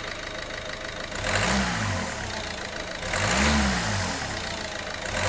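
Peugeot 308 1.6 HDi 8-valve diesel engine idling, then revved in two short blips about a second and a half apart, pitch rising and falling each time, with a third blip starting at the end. The tappet-like knock it had on acceleration is gone now that the hydraulic tappets and vacuum pump have been replaced.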